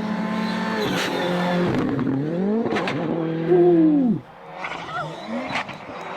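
Rally car engines revving up and dropping back as they change gear, with a few sharp cracks. The loudest run cuts off suddenly a little after four seconds in.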